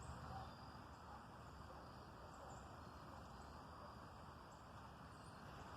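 Faint, sparse high chip notes of northern cardinals calling at dusk as they settle to roost, over a quiet outdoor hush.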